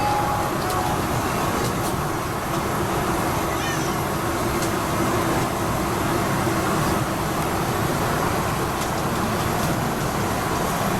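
Steady, loud vehicle rumble and hiss that holds at an even level, with a faint steady hum in it.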